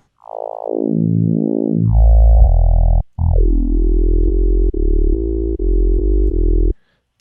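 Harmor software synthesizer playing a deep bass patch through a custom stepped 'stairs' filter shape: the tone sweeps down and back up, then two held low notes, the second chopped into a rhythmic stutter about twice a second, stopping near the end.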